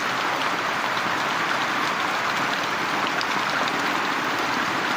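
Steady, fairly heavy rain falling, an even hiss loud enough to drown out speech.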